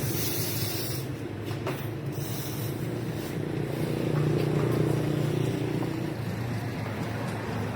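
A motor vehicle's engine running, a steady low hum that swells slightly about four to five seconds in.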